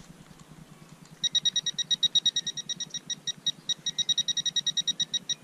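Teknetics Tek-Point pulse-induction pinpointer beeping rapidly, about eight high beeps a second, starting about a second in. The fast beeping signals a metal target close to the probe tip.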